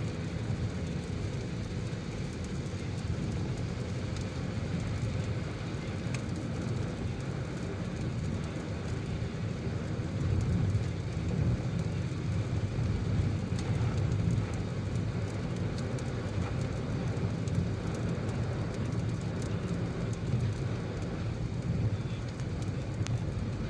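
Car driving in rain: a steady low rumble of tyres and engine on a wet road.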